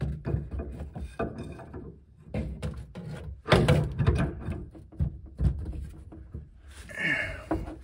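Irregular knocks and clunks of a wrench and metal pipe fittings as a stubborn brass drain fitting under a bathroom vanity is worked loose, the loudest knock about three and a half seconds in.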